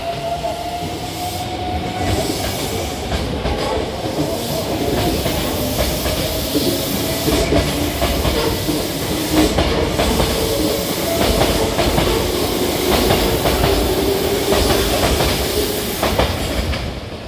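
Hankyu 8300 series electric train pulling out of the station: the motors' whine slowly rises in pitch over a rumble and the clack of wheels on rail joints. The sound drops off near the end as the train moves away.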